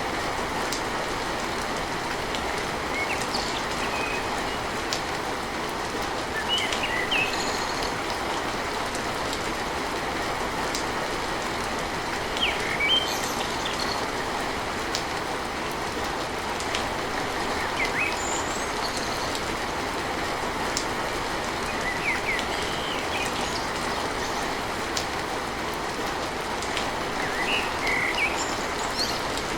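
Steady rain drumming on a tin roof, as an even hiss with sharp scattered drips and taps. Short high chirps come and go throughout.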